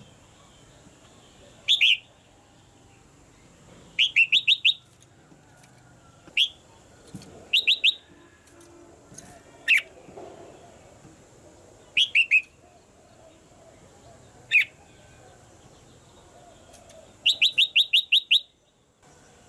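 Red-whiskered bulbul calling in short bursts of quick, falling chirps, from a single note up to a run of seven near the end, every couple of seconds: a caged female's call of the kind used to spur a male bulbul to sing harder.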